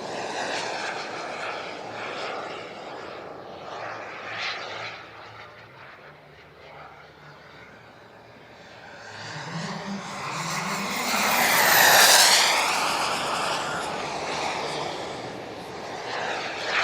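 Turbine engines of two large radio-controlled jets, an Elite Aerosports Havoc and Havoc SS, flying in formation: a jet rush that fades away, then builds to a loud fly-past about twelve seconds in, with a high whine dropping in pitch as they go by.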